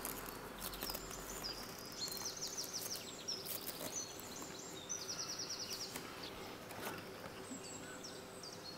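Small bird chirping faintly, several short high trills of quick repeated notes, over soft scattered clicks and rustles.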